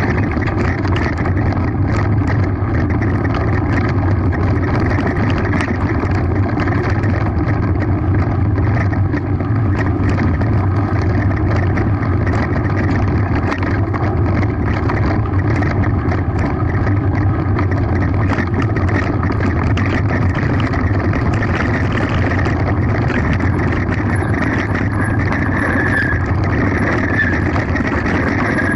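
Mountain bike running fast downhill on a rough track: steady wind rush on the microphone over the rumble of the tyres, with frequent sharp rattles and knocks from the bike over the bumps.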